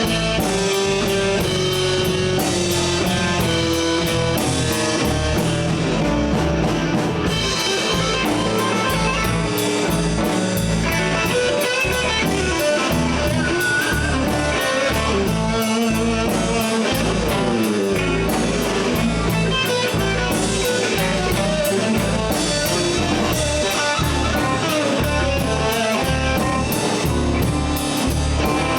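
A live blues band playing an instrumental passage: a guitar plays single-note lead lines with bends, over bass and a drum kit keeping a steady beat.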